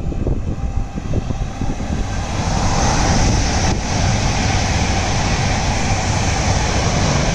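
Electric passenger train passing underneath at speed: a steady rush of wheels on rail that builds about two seconds in and then holds level. Gusts of wind buffet the microphone at the start.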